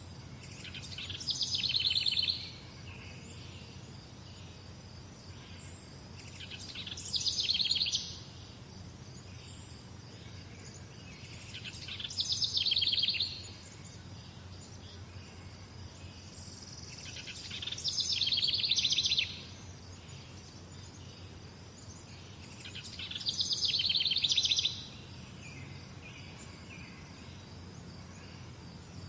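A songbird repeating a rapid trilled song phrase five times, about every five to six seconds; each phrase swells louder and stops abruptly. A steady low hum runs underneath.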